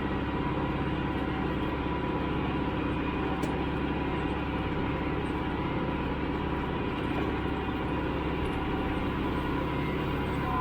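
Tractor engine running steadily at constant speed.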